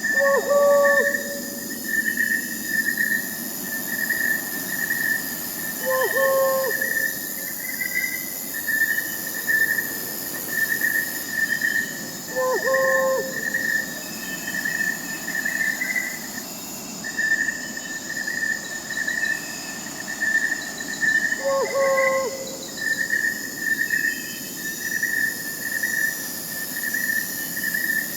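Crickets chirping in a steady, fast pulsing rhythm, over a constant high insect hiss. A short owl hoot comes in four times, several seconds apart.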